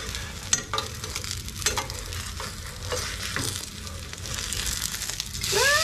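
A grated potato, carrot and onion egg fritter sizzling in oil in a nonstick frying pan, with a few clicks and scrapes from metal spoons working under its edge. The sizzle grows louder near the end.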